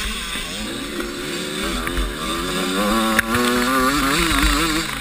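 85cc two-stroke motocross bike accelerating hard: the engine pitch climbs, breaks sharply at a gear change about three seconds in, then holds high and wavers near the end. Wind rumbles on the microphone throughout.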